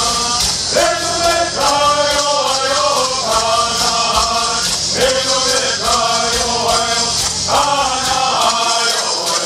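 Southern California Native American bird songs: a group of men singing together in repeating chanted phrases, with rattles shaking in a steady quick beat underneath.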